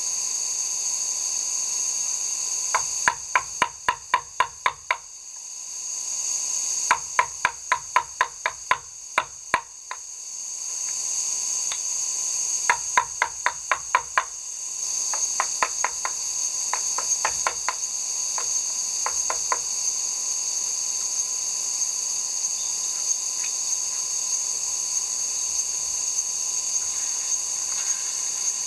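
A hammer striking in quick runs of about five blows a second, four runs in the first twenty seconds, over a steady high insect chorus.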